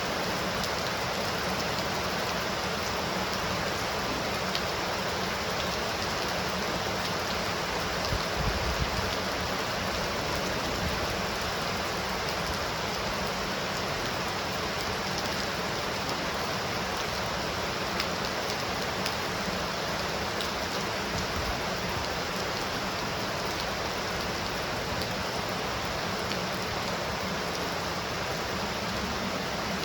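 Steady heavy rain falling, an even, unbroken hiss. A brief low thump comes about eight seconds in.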